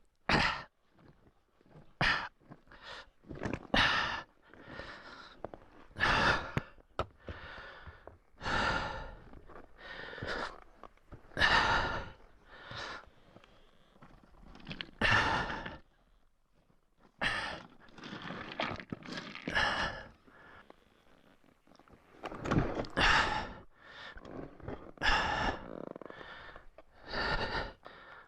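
A man breathing hard from exertion: a string of loud, irregular gasps and heavy exhales, some short and some drawn out, with no engine running.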